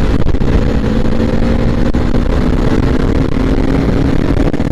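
Bajaj Pulsar NS200's single-cylinder engine and exhaust running steadily under way, its pitch creeping up slightly as the bike gathers speed.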